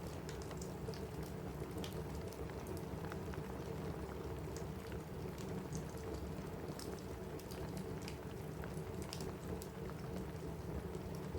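Steady rain on a roof together with a crackling wood fire: a constant low rush of rain with scattered sharp pops and crackles.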